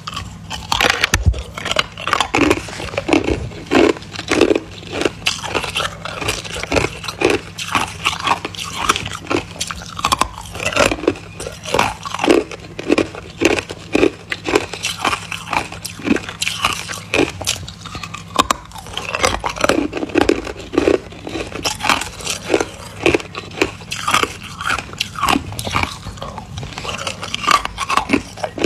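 Ice being bitten and chewed close to the microphone: rapid, irregular crunches, several a second, without pause.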